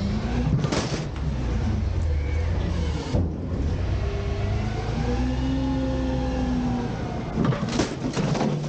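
Garbage truck's engine running up and down in pitch as its hydraulics work a bin dump, with a few sharp knocks and clanks near the start and near the end.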